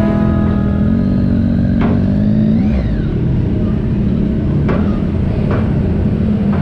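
Triumph Tiger 800 XCx motorcycle engine running on the road, with heavy wind rush. About a second in, the engine note climbs for a second and a half, then drops and runs steady.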